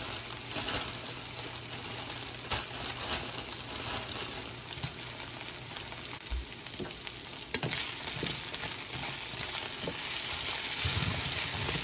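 Diced potatoes and onion sizzling steadily in hot oil in a frying pan, with frozen pepper pieces just added and small pops throughout. Near the end a spatula stirs and scrapes through the potatoes.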